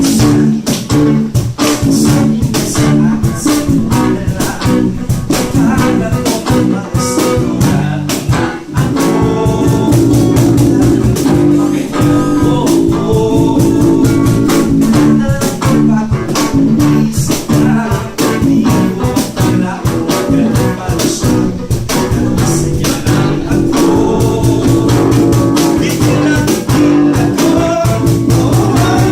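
A rock band rehearsing live: loud guitars playing over a steady, driving drum beat.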